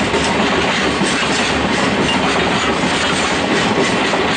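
Freight train of cement tank wagons hauled by an ED45 electric locomotive rolling past at low speed, a steady loud rumble with the wheels clattering on the rails.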